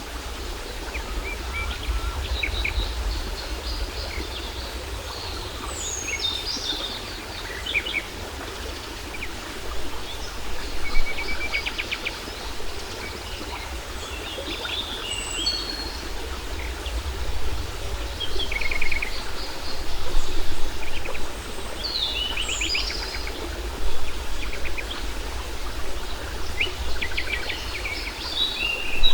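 Several birds chirping and trilling in short, scattered phrases over the steady rush and low rumble of a waterfall.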